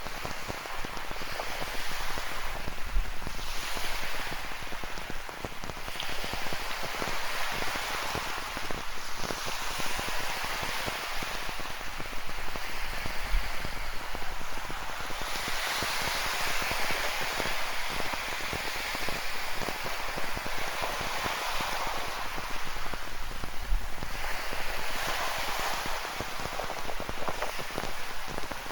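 Rain falling steadily with a dense patter, over ocean surf that swells and washes in several times.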